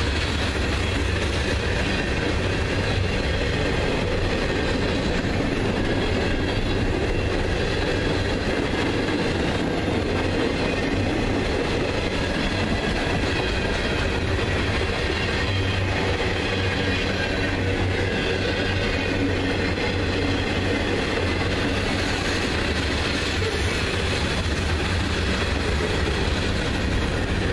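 Freight cars of a CSX manifest train rolling past at speed: a steady noise of steel wheels running on the rails with continuous clatter, unchanging throughout.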